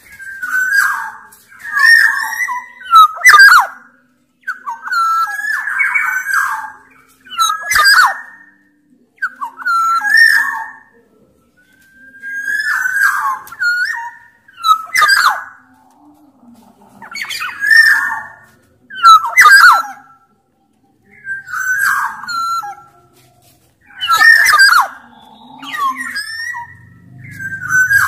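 Black-naped oriole (kepodang) of the large-bodied Sumbawa form in full song. It gives short whistled phrases with gliding notes mixed with harsher ones, repeated every second or two with brief pauses between.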